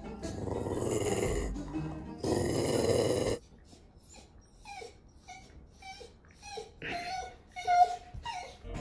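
A dog whimpering in a string of about ten short, high cries, one louder near the end, after about three seconds of rustling noise.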